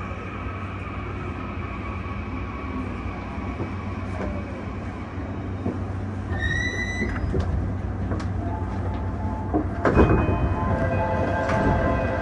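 JR East E235 series train braking to a stop alongside a platform, with the whine of its Toshiba hybrid SiC VVVF inverter falling away under steady running noise. About ten seconds in there is a loud burst of noise, and then steady high tones start.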